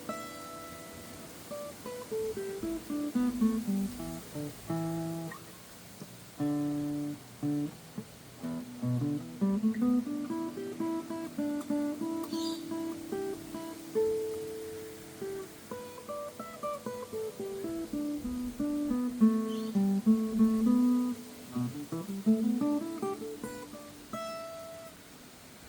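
Steel-string acoustic guitar picked in runs of single notes that fall and climb stepwise through a scale several times, with a few short chords between the runs.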